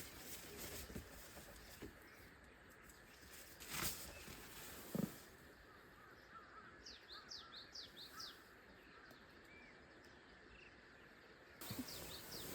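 Faint outdoor morning ambience with small birds chirping in quick runs of high notes, mostly in the second half. A short knock comes about four seconds in and a low thud about a second later.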